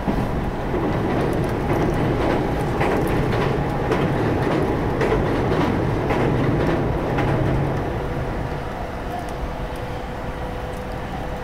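Electric commuter train running at speed, heard from inside the passenger car: a louder rumble with many wheel clacks as it crosses a steel truss bridge. It eases off about eight seconds in, leaving a steadier hum.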